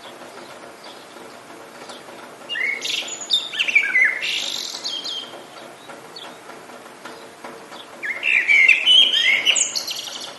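Songbirds singing two long warbling phrases, one starting about two and a half seconds in and another near the end, over a steady hiss of rain.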